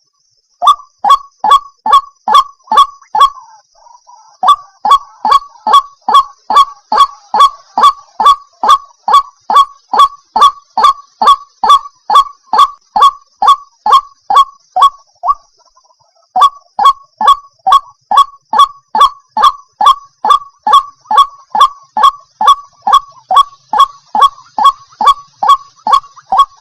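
White-breasted waterhen calling: a fast, monotonous series of short honking notes, about three to four a second, pausing briefly twice. A faint steady high tone runs behind the calls.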